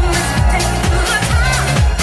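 Disco-house dance music played loud in a DJ set, with a steady kick drum about twice a second under a melodic line.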